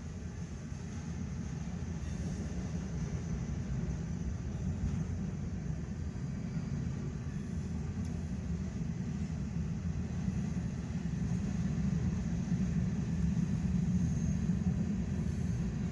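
Freight cars of a manifest train rolling past: a steady low rumble of wheels on rail, growing a little louder near the end.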